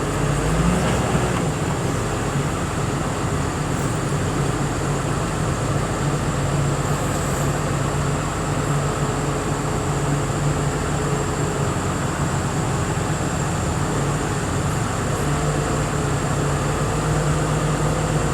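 A large truck's engine running steadily as the rig is driven slowly through the yard, a constant low drone with a steady hum underneath.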